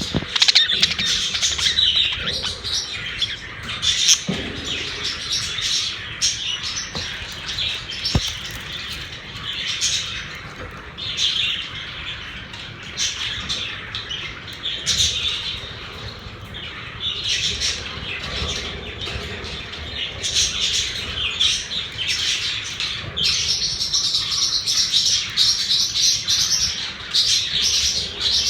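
Several pet budgerigars chattering and chirping without a break, with a few sharp clicks among the chatter.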